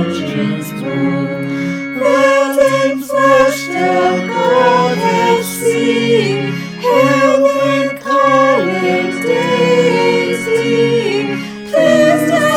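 Choir singing in several parts, with long held notes and brief breaks between phrases.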